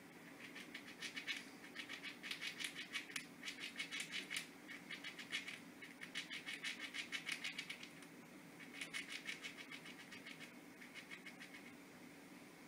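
Squirrel gnawing at a hazelnut shell with its teeth: runs of rapid small scraping clicks lasting a second or two each, with short pauses between them.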